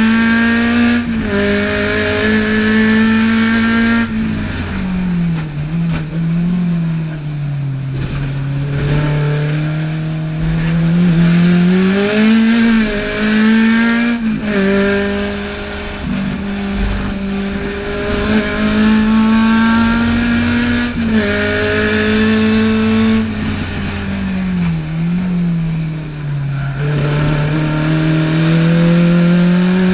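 Tuned Alfa Romeo twin-cam four-cylinder engine at full throttle, heard from inside the GT Junior's cabin. The pitch climbs steeply through the gears and drops sharply at each upshift. In two stretches the engine falls away as the car slows, with short rises in pitch along the way.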